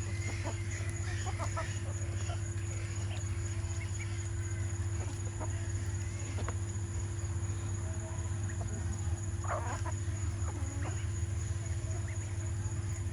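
Chickens clucking, scattered short calls with a louder burst of calls about nine and a half seconds in, over a steady low hum.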